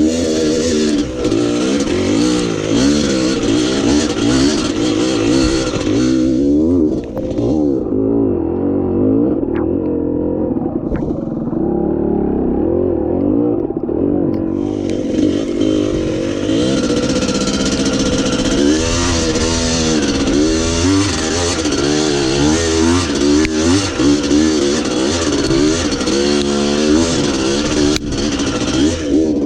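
Dirt bike engine running under load on a trail, its pitch rising and falling with the throttle, under a steady hiss that fades for several seconds in the middle.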